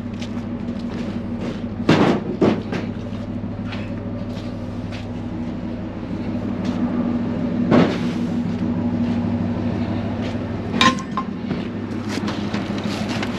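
A vehicle engine idles steadily under a few sharp knocks and clanks: two close together about two seconds in, one near the middle, and the loudest near the end, which rings briefly.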